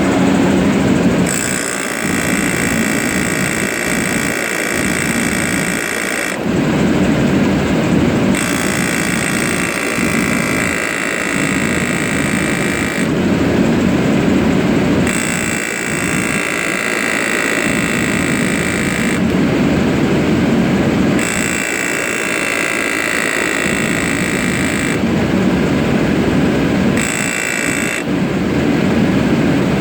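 Land Rover LR3 air suspension compressor cycling: it whines for four or five seconds, cuts out for about two, and starts again, five times over a steady low rumble. The owner suspects this on-off cycling is a failing compressor; it ends with the suspension fault light.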